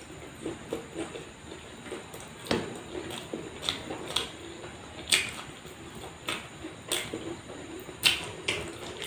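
Close-miked eating: wet chewing and mouth smacks at an uneven pace, with a handful of sharper, louder clicks among them.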